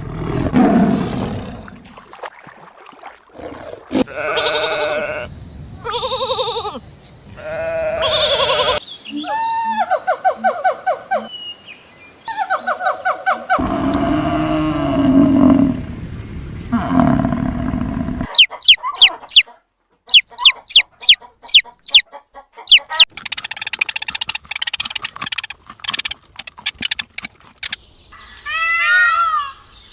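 A string of different animal calls, one after another: farm animal and fowl calls, with a stretch of rapid repeated sharp calls in the second half and high, wavering bird calls near the end.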